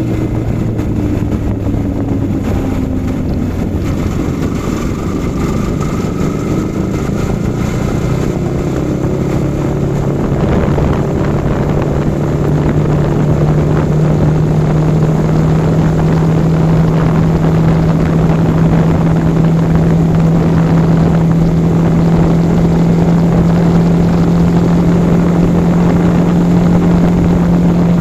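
Yamaha R15 V4's single-cylinder engine running under way. Its note climbs about ten seconds in, then holds a steady, higher tone.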